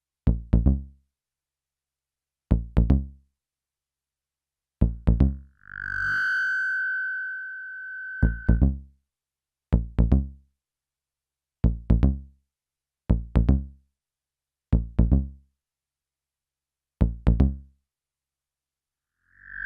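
Behringer Neutron synthesizer bass notes played through an MXR Carbon Copy analog delay. Short plucked notes come about every two seconds, each followed by a couple of quick, fading delay repeats. Twice a high, steady tone swells in and holds for a few seconds.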